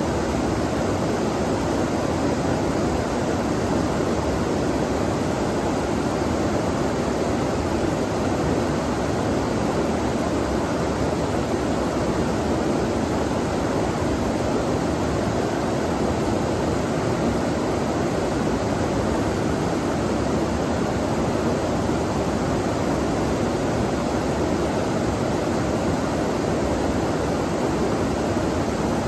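Flowing stream water rushing steadily, an even noise with no breaks or changes.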